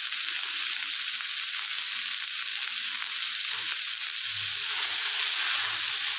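Shredded cabbage, capsicum and potato frying in oil in a kadai (wok). A steady sizzling hiss that grows a little louder near the end.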